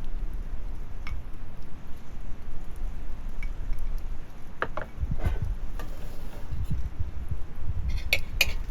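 Scattered light clicks and taps of kitchenware, with a few bright clinks near the end, over a low wind rumble on the microphone.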